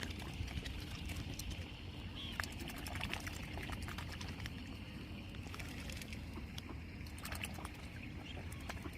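Young swans dabbling in shallow water, making many small splashes and bill clicks over a steady low rumble.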